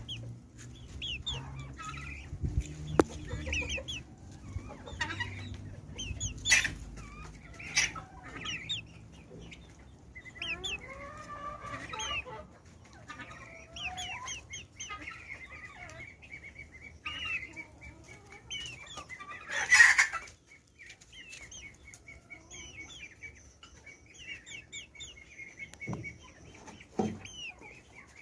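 Brahma chickens clucking while their chicks peep over and over in short falling chirps. A rapid trilling call runs through the second half, and a loud sharp rustle or knock comes about twenty seconds in.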